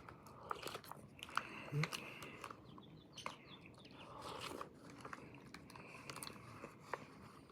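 Close-up chewing and biting sounds of someone eating, with irregular wet mouth clicks and soft crunches.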